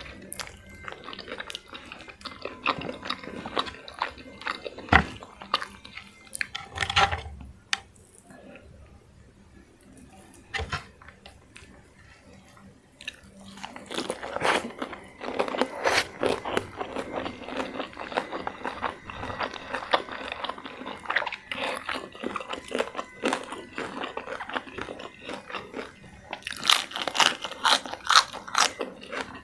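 Close-miked eating of a crispy fried chicken meal: irregular crunchy bites and wet chewing. Chewing eases off about a third of the way in, then resumes steadily, with sharper crunches near the end.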